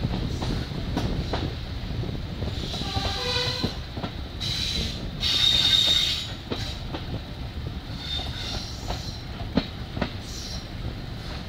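A passenger train running along the track, heard from an open carriage window: a steady rumble of wheels on rail with clicks over the rail joints. Around the middle the wheels squeal loudly for a couple of seconds.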